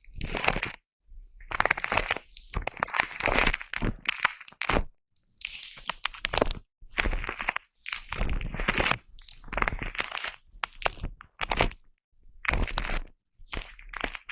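A brush rubbed against a foam-covered microphone for ASMR, in a series of about a dozen short scratchy rustling strokes with brief pauses between them and small clicks scattered through.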